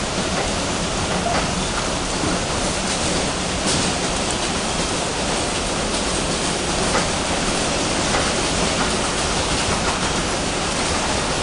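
An R142 subway car running between stations, heard from inside the car: a steady rumble and rush of wheels on rail.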